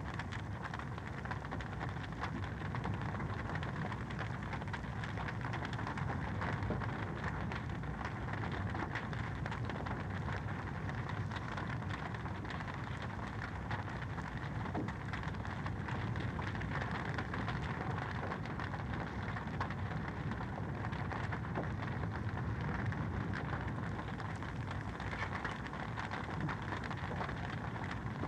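Wood fire in a fireplace crackling steadily, a continuous hiss of flames dotted with many small pops and snaps.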